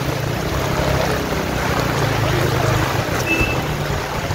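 Steady heavy rain falling, a dense even hiss with a low steady rumble underneath.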